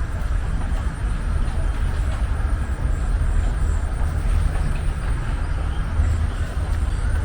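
Outdoor city ambience: a steady low rumble, with a faint, high, steady whine above it.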